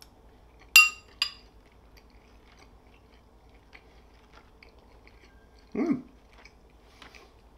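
A man chewing a mouthful of chicken curry and rice, with faint mouth sounds throughout. A metal spoon clinks twice against a ceramic bowl about a second in, and he gives a short hummed 'mm' near the end.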